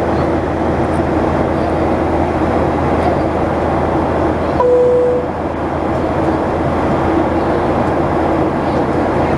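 Steady cabin noise of a Boeing 737-900ER under way, the low rumble of its CFM56-7 engines and rushing air. About halfway through, a short high-then-low tone sounds.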